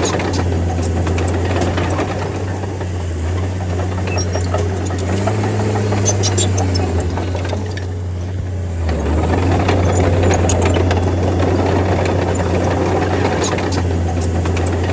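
Bulldozer's diesel engine running hard, its low drone shifting up and down in pitch a few times around the middle, with scattered light clanks and clicks from the tracks and the work.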